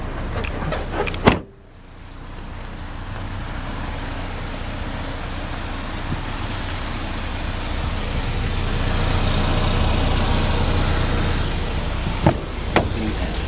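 Manual rear liftgate of a 2013 Chevy Equinox shut by hand with a loud slam about a second in. A steady rushing noise then swells and fades, with two light clicks near the end.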